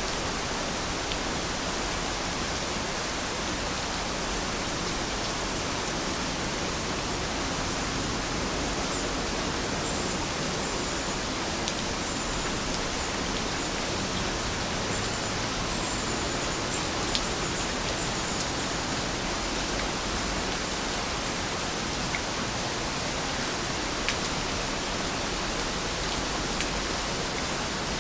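Steady rain falling, an even hiss with occasional sharp drip ticks.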